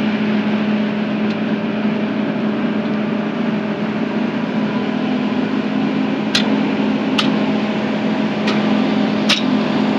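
Diesel engine running steadily at a parked truck, a constant low hum, with four sharp clicks or knocks in the second half.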